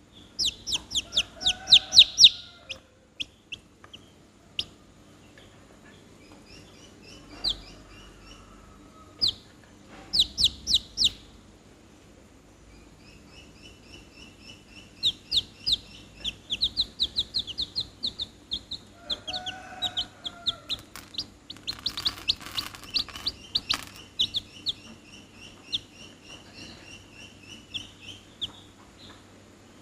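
Chickens and small birds calling: quick runs of short, high chirps repeat throughout, with pauses between runs. Two lower, drawn-out calls come in, one near the start and one about two-thirds of the way through.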